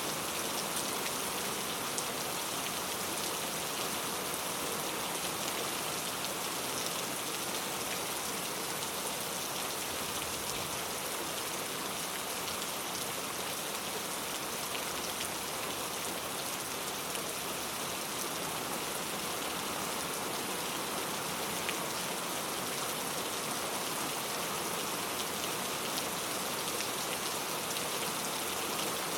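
Very heavy rain falling steadily, a dense hiss with scattered drop ticks.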